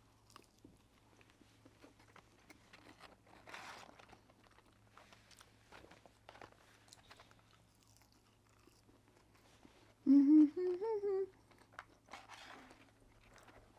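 Close-miked chewing of McDonald's french fries: soft crunching and wet mouth sounds. About ten seconds in comes a short, louder hummed "mmm" of a woman's voice that rises in pitch.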